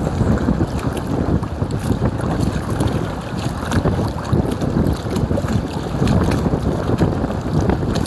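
Strong wind buffeting the microphone in gusts, a heavy, uneven rumble that rises and falls.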